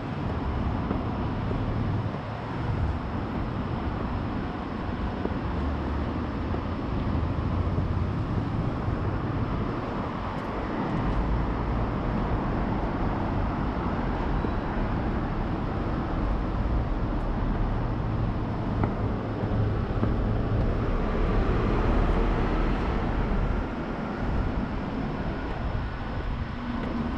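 Road traffic: a steady low rumble of vehicles passing, with a faint steady whine in the last few seconds.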